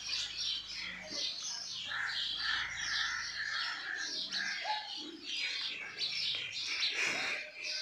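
Birds chirping, many short calls overlapping without a break.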